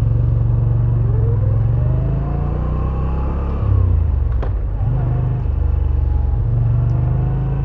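Moto Guzzi V7 850's air-cooled transverse V-twin engine running under way, its note rising as the bike accelerates and dropping back about four and six and a half seconds in, as with gear changes. A single sharp click about four and a half seconds in.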